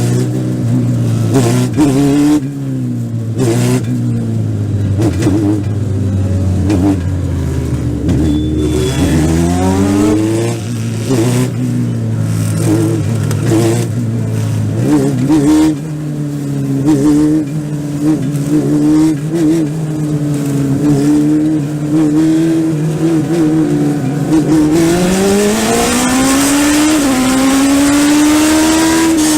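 Legend race car's Yamaha motorcycle engine heard from inside the car at racing speed on an oval. The revs hold mostly steady, dip briefly and climb back about a third of the way in as the driver lifts and gets back on the throttle, then rise again near the end before easing off.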